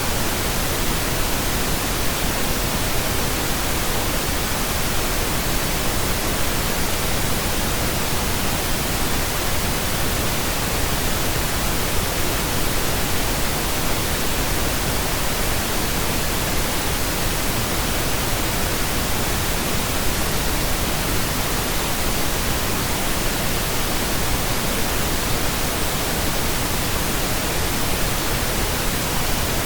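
Steady, unchanging pink noise: an even, continuous hiss spread across all pitches.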